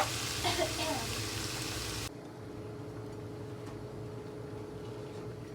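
Chicken sizzling in honey sauce in a pan as it is stirred, stopping abruptly about two seconds in; a faint steady hum remains afterwards.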